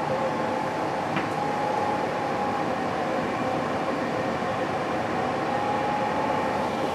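Passenger train running at a steady speed: even rolling noise with a steady whine under it, and a faint click about a second in.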